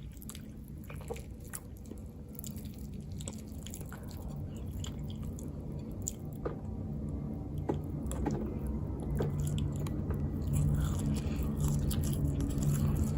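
Close-miked chewing and biting of food: scattered wet, squishy mouth clicks over a low steady hum that grows louder toward the end.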